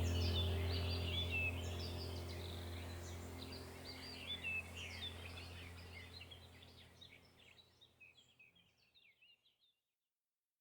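Many small birds chirping and twittering over a low steady drone, the whole fading out gradually and gone about eight seconds in.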